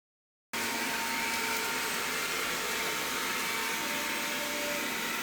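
Rowenta Explorer Serie 60 robot vacuum running steadily, a constant suction noise with a faint whine; it cuts in abruptly about half a second in, after dead silence.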